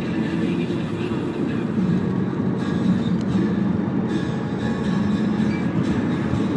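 Steady low rumble of a Toyota Camry 2.4 on the move, with engine and tyre-on-road noise heard from inside the cabin.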